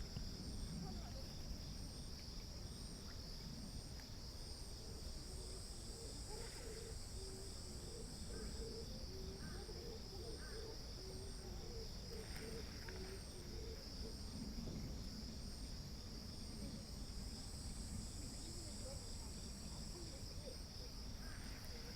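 Insects trilling steadily on one high note, with a second insect chirping in an even, repeating pulse above it, over a low rumble.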